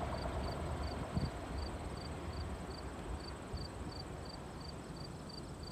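Low rumble of a train fading away as it recedes down the line. Over it, an insect chirps steadily, about three short chirps a second.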